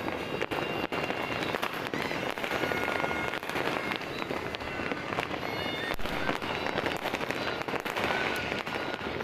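Many New Year fireworks and firecrackers going off at once: a continuous crackle with frequent sharp bangs, and a few thin whistling tones over it.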